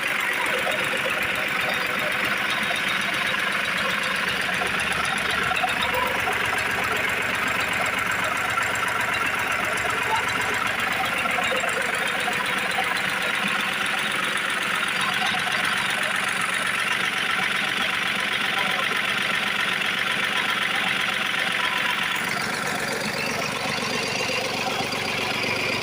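Lister stationary diesel engine running steadily at idle.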